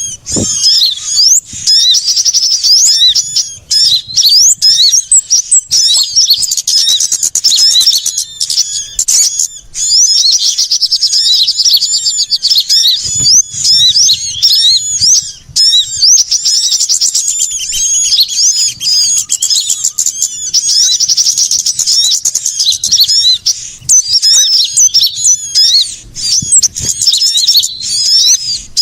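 A dense, loud chorus of many small songbirds chirping and trilling over one another in quick high-pitched notes without a break: a bird-lure recording of small-bird calls, the kind played to draw small birds such as sunbirds down.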